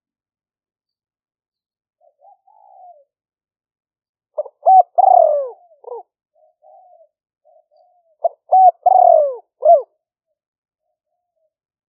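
Spotted dove cooing: two full song phrases about four seconds apart, each a few short clipped notes followed by a long falling coo, with softer quiet notes between them.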